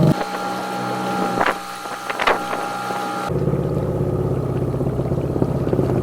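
Small outboard motor on an inflatable boat running under way. For the first three seconds a thin steady whine and two sharp knocks replace its low drone, which then comes back and runs steadily.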